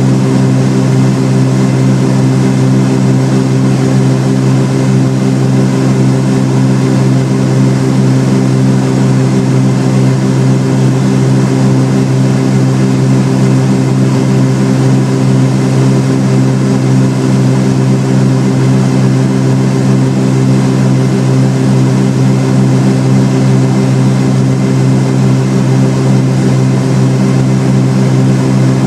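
Cessna 310R's twin piston engines and propellers running at a steady power setting: a loud, even drone with a strong low hum that holds constant without any change in pitch.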